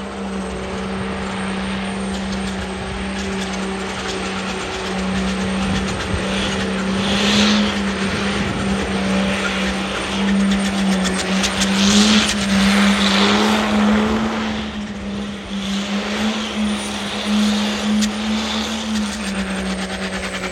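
A truck engine held at high, nearly steady revs under heavy load, its pitch wavering slightly, then starting to fall off at the very end as the throttle comes off.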